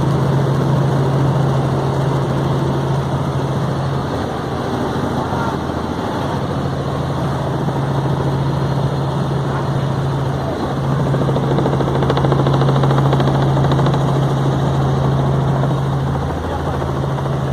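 Helicopter in flight: a loud, steady drone of rotor and engine with a strong low hum throughout.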